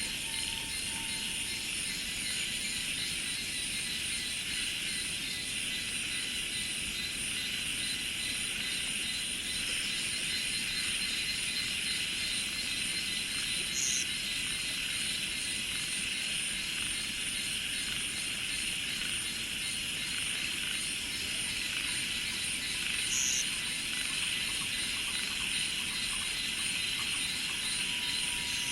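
A dense, steady chorus of cicadas and other insects, droning high and unbroken, with two brief high chirps: one about halfway through and one near the three-quarter mark.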